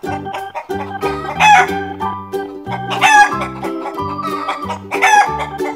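Chickens calling: three short, loud calls about a second and a half apart, over a light background music track with a steady beat.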